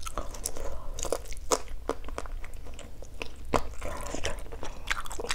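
A person biting and chewing a piece of lemongrass-chili stir-fried chicken leg, heard as irregular small crunches and mouth clicks.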